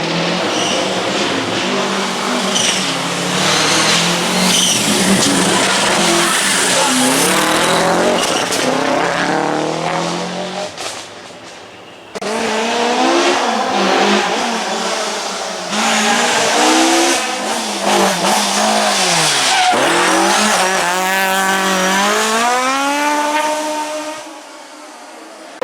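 Historic rally cars at full effort on a special stage, engines revving up and down through gear changes and corners, with tyres squealing. A second car takes over about halfway through after a brief lull; its engine note drops low as it brakes into a corner, then climbs again as it accelerates away.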